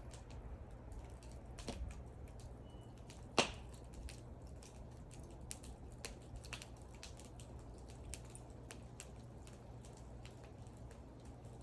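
Wood fire crackling: scattered sharp snaps and ticks from the burning wood, with one loud pop about three and a half seconds in.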